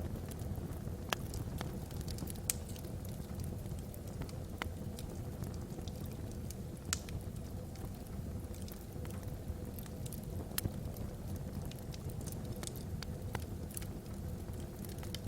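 Wood logs burning in a fireplace: a steady low rumble with scattered sharp crackles and pops, a dozen or so spread irregularly.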